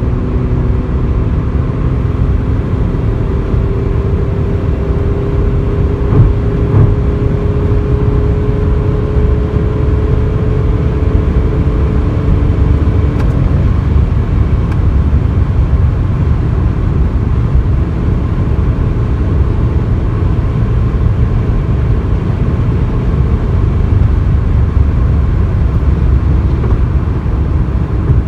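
Skoda Superb's 2.0 TDI four-cylinder diesel pulling hard at speed, its note climbing slowly over dense road and wind rumble. Partway through, the engine note fades, leaving the rumble. There are a couple of short thumps about a quarter of the way in.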